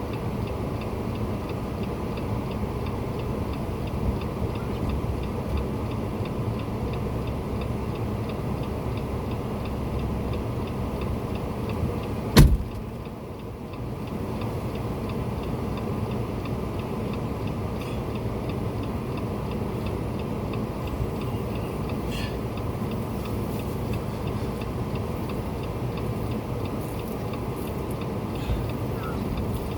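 A vehicle running steadily, with a faint regular ticking over it and one sharp click about twelve seconds in.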